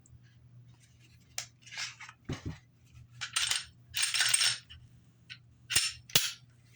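A pistol being handled: a string of sharp clicks and knocks with short scraping slides and a faint metallic ring, about eight separate sounds with the loudest scrapes in the middle and two sharp clicks near the end.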